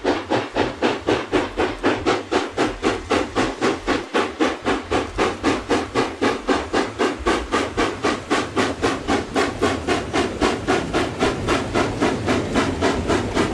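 Steam locomotive exhaust chuffing in a quick, even rhythm of about four chuffs a second, over a low rumble.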